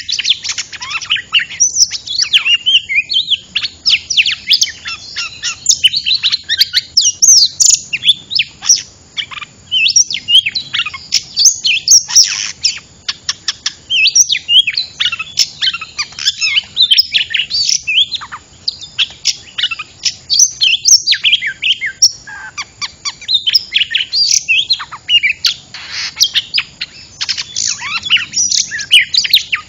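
Oriental magpie-robin (kacer) singing a loud, fast, unbroken song of varied whistles, trills and chirps, the excited territorial song used as a lure call to draw wild magpie-robins in.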